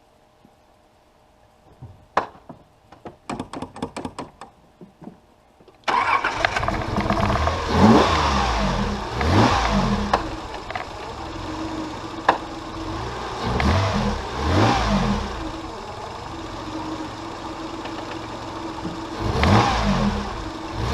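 Nissan 300ZX's V6 engine being started: the starter cranks in quick strokes for a few seconds, and the engine catches suddenly about six seconds in. It is then blipped up and down several times between stretches of fast idle.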